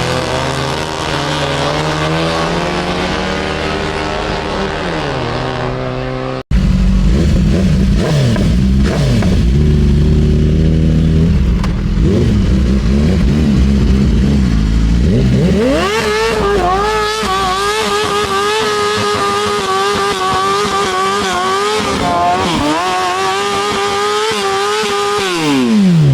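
Car engines revving, pitch rising and falling, with a sudden break about six seconds in and a heavy low rumble after it. About two-thirds of the way through, one engine is revved up and held at high revs for about ten seconds, then drops back near the end.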